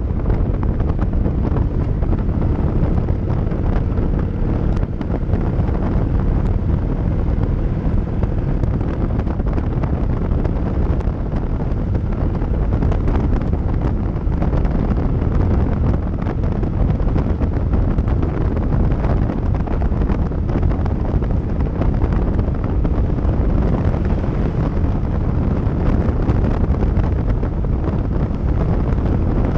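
Wind buffeting the microphone on a moving Kawasaki Vulcan 900 motorcycle, a steady low rumble of wind and road noise with the bike running beneath it.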